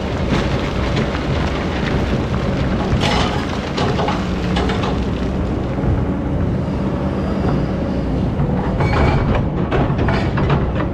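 Hydraulic excavator's diesel engine running steadily under load, with short clattering bursts from the bucket working sand and stones about three seconds in and again near the end.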